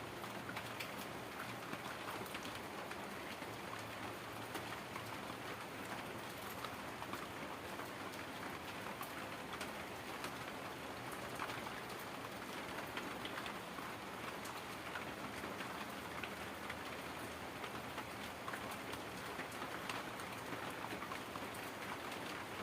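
Heavy rain falling steadily, an even hiss sprinkled with countless small drop ticks.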